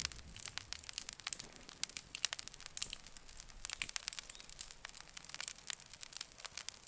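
Campfire wood burning and crackling, with many quick irregular snaps and pops.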